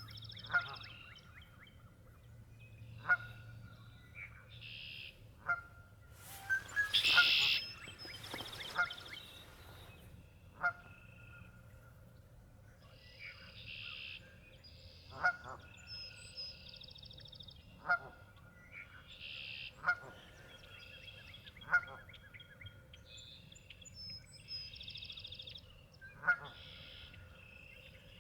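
Birds calling, with a short sharp call every two seconds or so and buzzy, higher calls in between.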